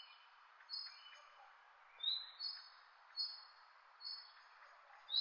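A small bird calling over and over, short high chirps roughly every half to one second, one of them a quick upward slide about two seconds in, over a faint steady hiss.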